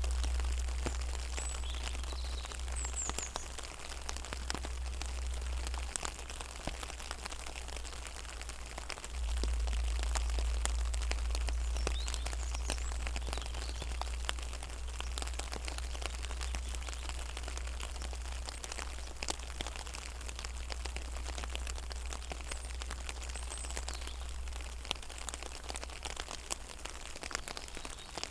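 Rain falling on a pond: a dense, steady patter of drops hitting the water, over a steady low rumble. A few short, high bird chirps come through now and then.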